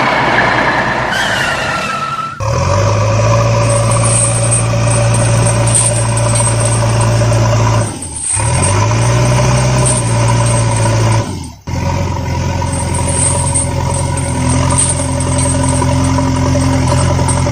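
Motor vehicle engine idling steadily with a low hum, cut off briefly three times and resuming each time. A falling whistle-like tone sounds in the first two seconds.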